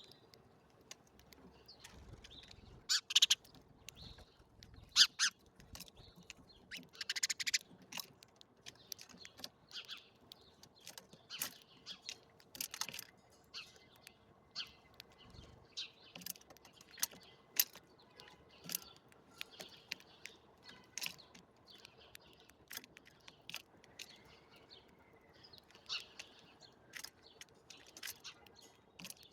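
Small birds feeding and chirping, with short chirp notes and many sharp clicks and ticks scattered throughout, the loudest about three and five seconds in.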